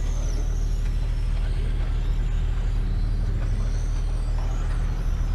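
Racing motorcycle engines revving up and falling back as the bikes lap the circuit, the pitch rising and dropping in sweeps over a steady low drone.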